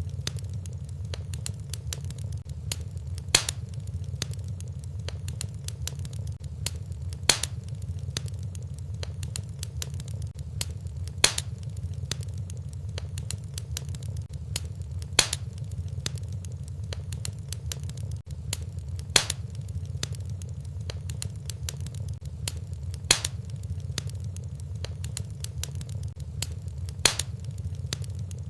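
Fireplace fire crackling, with a steady low rumble and a sharp pop about every four seconds.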